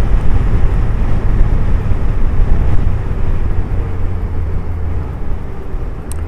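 Suzuki Hayabusa motorcycle riding along, with the engine's low drone and wind and road noise, easing down in level over the last few seconds. A brief click comes near the end.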